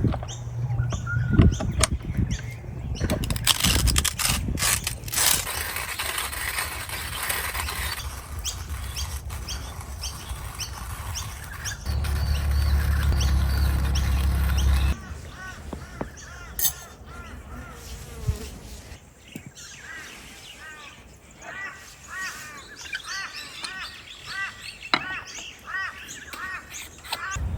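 Birds chirping outdoors, with many short repeated calls in the second half. The first half holds scattered knocks and a low rumble, which cuts off suddenly about 15 seconds in.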